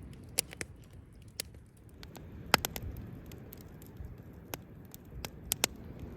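Campfire wood crackling, with irregular sharp pops and snaps, the loudest about two and a half seconds in.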